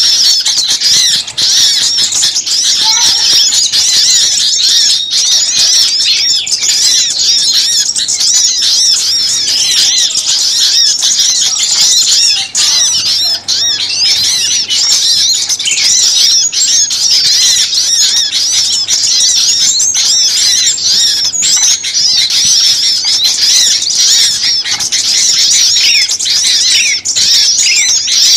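Many small songbirds chirping and calling at once in a dense, continuous high-pitched chatter, a noisy bird-lure recording of excited small birds.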